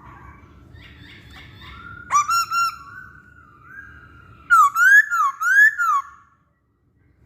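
Black-throated laughingthrush singing loud whistled phrases: a few sharp notes and a long held whistle, then a run of about four loud swooping whistles rising and falling.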